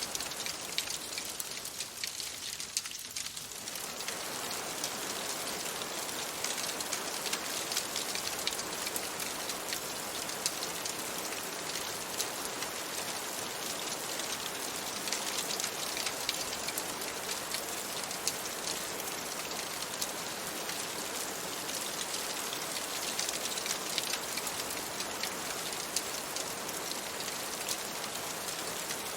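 Steady rain falling, a dense hiss of fine pattering drops. The deeper part of the hiss thins for a moment about two seconds in, then fills back in.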